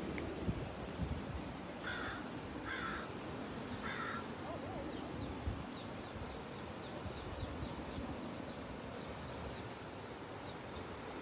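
Three harsh, crow-like bird calls in quick succession, then a string of faint, short high chirps from a smaller bird, over a steady rush of surf.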